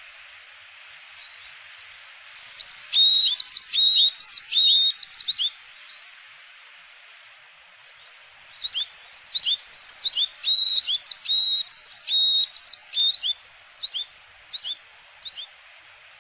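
Small songbirds chirping: rapid, sharp, high chirps in two bouts, one from about two and a half seconds in lasting about three seconds, the other from about eight and a half seconds until near the end. A faint steady hiss lies underneath.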